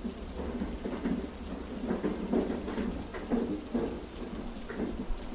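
Heavy rain ambience over a steady low rumble, the mixed rain-and-train bed of a sleep soundtrack.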